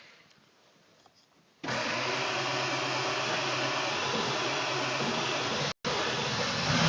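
Ford 7.3 L Power Stroke diesel being cranked by its starter on a cold start, beginning suddenly about a second and a half in. It turns over steadily without catching, swelling slightly near the end.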